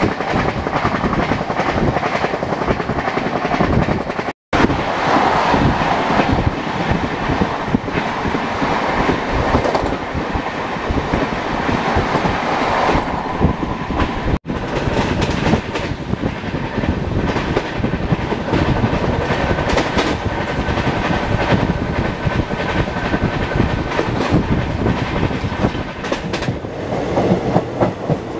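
Indian passenger train running at speed, heard from on board: the clickety-clack of wheels over rail joints above a steady rumble. Twice the sound drops out for a moment, about four and fourteen seconds in.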